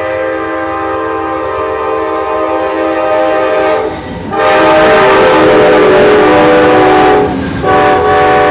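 Amtrak locomotive's Nathan K5LA five-chime air horn sounding in long blasts of a steady multi-note chord. The first blast breaks off about four seconds in and a louder one follows with the passing train's rumble under it. After a brief gap near the end the horn sounds again.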